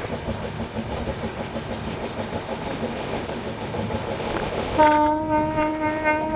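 Moving passenger train running with a steady rumble, then the locomotive's horn sounds one blast of about two seconds near the end.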